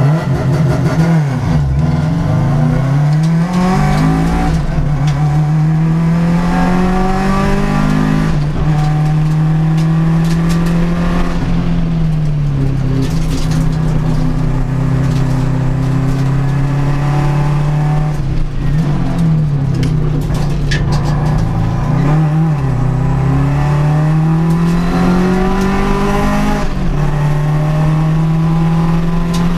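Race car engine running hard at high revs, its pitch dropping sharply and climbing back up several times as the throttle is lifted and reapplied.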